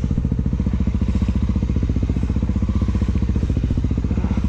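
Honda XR250 Tornado's single-cylinder four-stroke engine running at a steady low speed with an even, rapid thumping pulse.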